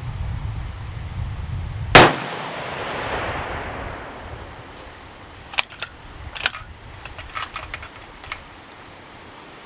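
A single 6.5 Creedmoor rifle shot about two seconds in, its report echoing away over the next two seconds, with wind rumbling on the microphone before it. About three seconds later comes a run of sharp metallic clicks and clinks, typical of the bolt being worked and the spent case ejected.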